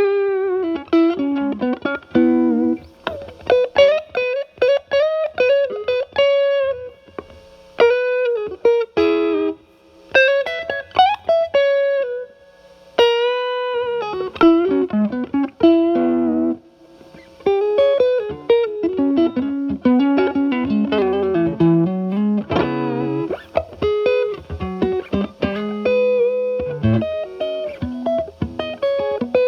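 Fender Stratocaster with single-coil pickups played through a Paul Cochrane Timmy overdrive pedal into a Marshall Valvestate amp's clean channel, in the pedal's clean-up setting. Improvised single-note guitar lines with string bends, in short phrases with brief pauses.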